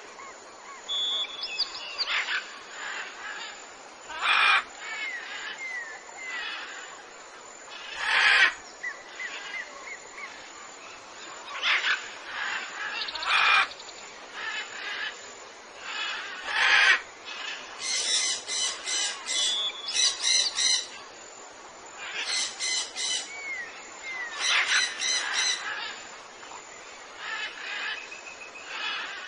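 Birds calling: a mix of chirps, short squawks and brief whistled glides. In the second half come runs of fast repeated notes.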